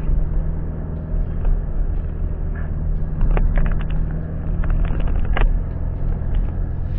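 A motor vehicle's engine running steadily with a low hum, with a run of short knocks and rattles a few seconds in.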